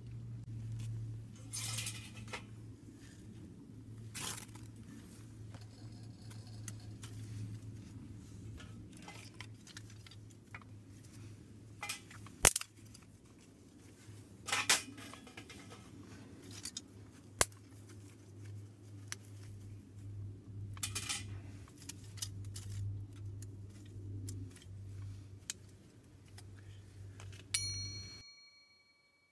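Metal camp cookware being handled, with scattered clinks and knocks over a low steady hum. Near the end, one clear ringing metallic ping dies away.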